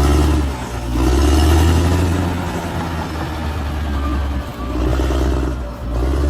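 Large bulldozer's diesel engine running under changing load, its low drone easing off and building again several times.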